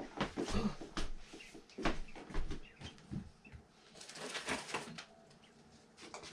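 Young chickens peeping faintly, mixed with several sharp knocks in the first couple of seconds and a rustle about four seconds in as things are handled.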